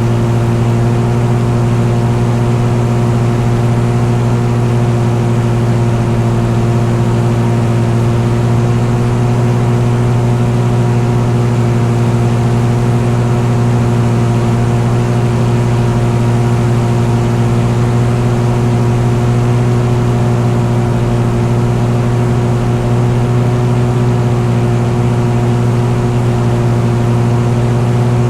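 Engine running at one steady speed, a continuous drone that holds the same pitch throughout with no revving up or down.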